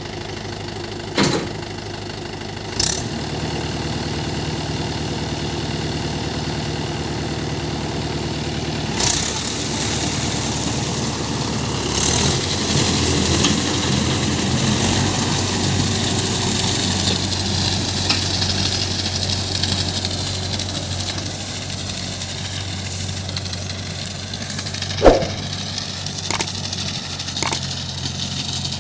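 Mahindra 585 DI tractor's four-cylinder diesel engine running steadily, with a few sharp knocks or clanks, two near the start and several near the end.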